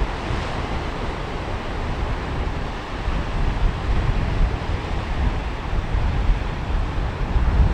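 Sea waves washing onto a beach in a steady rush of surf, with wind buffeting the microphone in a low rumble.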